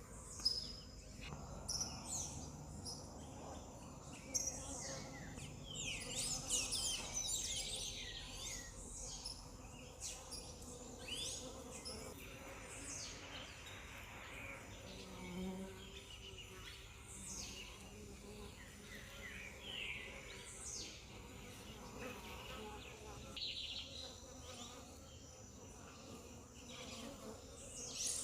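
Honeybees buzzing at close range in a steady hum, with many short high chirps over it, thickest about a quarter of the way in.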